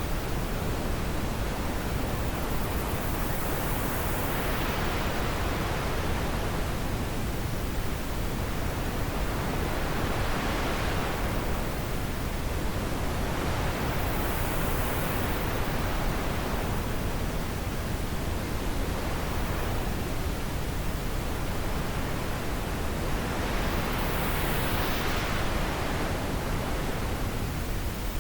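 Steady wind, a continuous rushing that swells and eases in slow gusts every several seconds.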